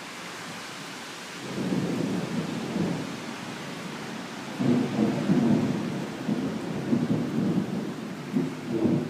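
Thunder rumbling over steady heavy rain. A first roll comes about a second and a half in, then a louder, longer roll with several peaks from about halfway through.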